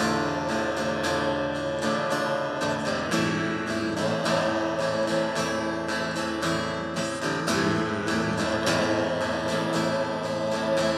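Live band music led by a strummed acoustic guitar, with steady repeated strokes over sustained chords and no singing.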